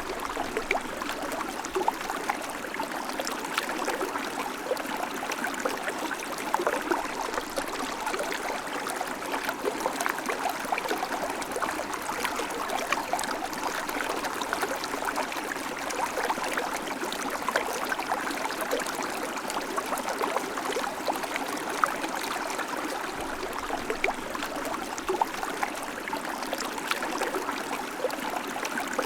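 River water flowing steadily over rocks, a continuous rushing with constant small splashes and gurgles.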